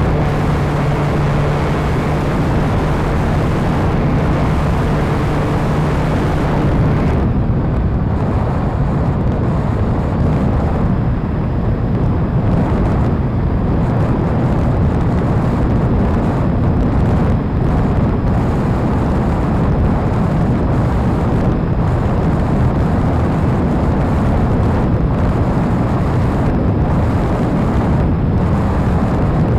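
Radio-controlled model airplane in flight, heard as a steady loud rush of wind rumble on the microphone with the plane's motor under it. A steady motor tone drops away about seven seconds in, and the sound turns duller after that.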